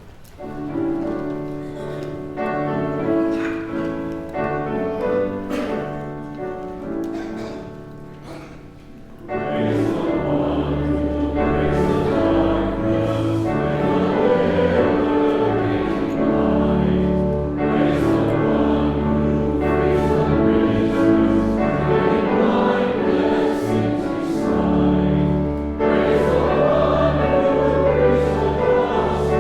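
Closing hymn of a church service: a short instrumental introduction of held chords, then about nine seconds in the congregation starts singing the hymn to the accompaniment, louder and fuller.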